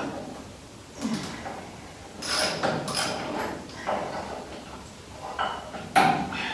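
Several short scrapes and clunks of metal tools and parts being handled, spaced irregularly about a second or so apart.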